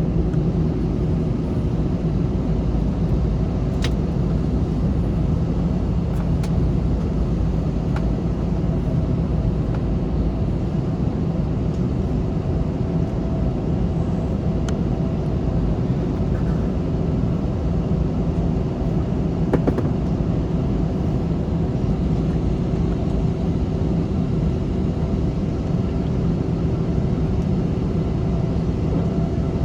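Steady cabin noise inside an Airbus A321 on the ground with its jet engines running: a low hum with a few held tones, and now and then a faint click.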